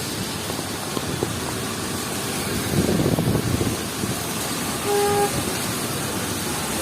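Steady hiss of heavy rain and wet street traffic, with a louder swell of traffic noise about three seconds in and a single short car horn toot about five seconds in.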